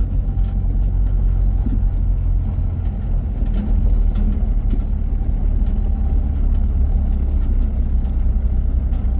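Nissan pickup truck engine running with a steady low rumble, with a few faint knocks over it.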